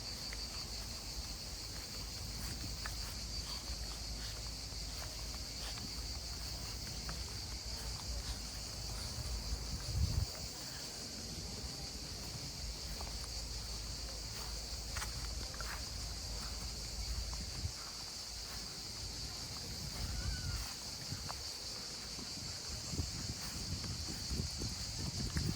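A steady, high-pitched chorus of insects shrilling without a break, over a low rumble, with a louder bump about ten seconds in.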